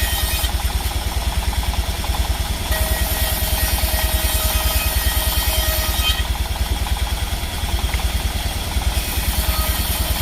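Sawmill machinery running with a steady, fast, low throb.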